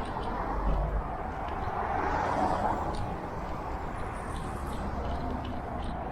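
Steady road traffic noise, with a vehicle going past about two seconds in.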